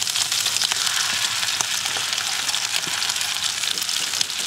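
Ide and perch roe frying in a cast-iron pan: a steady hissing sizzle with many small pops.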